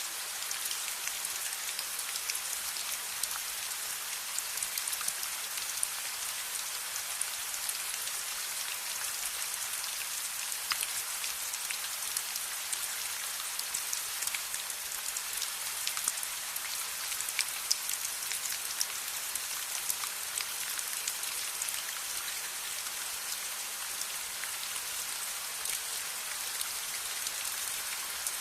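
Steady rain falling: a dense even hiss with many small, sharp drop ticks scattered through it.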